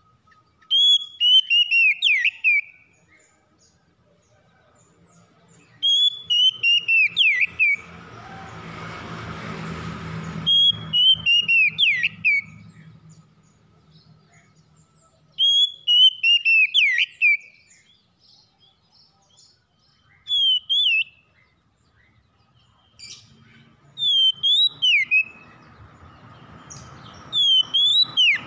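Oriental magpie-robin (kacer) singing: a loud, short whistled phrase of quick descending notes repeated about every four to five seconds. A softer rushing noise with a low hum swells and fades between phrases, about a third of the way in and again near the end.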